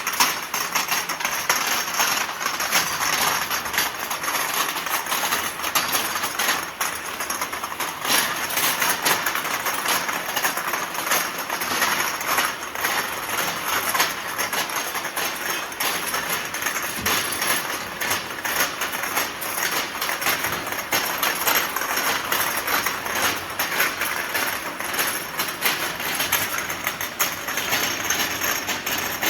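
Automatic ultrasonic bottle washing machine for 250ml glass bottles running: a steady machine noise thick with quick clicks and rattles.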